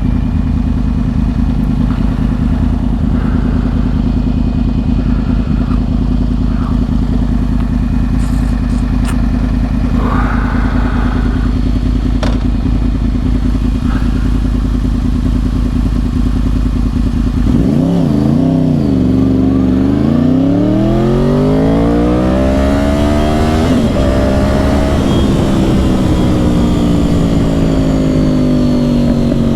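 2010 Yamaha R1's crossplane inline-four through dual Yoshimura exhausts, running at a steady cruise. About two-thirds of the way in, the engine note dips, then climbs hard under acceleration, breaks briefly at a gear change and slowly falls away.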